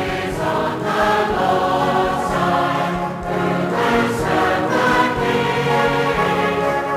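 Choir and congregation singing a hymn, accompanied by a Salvation Army brass band.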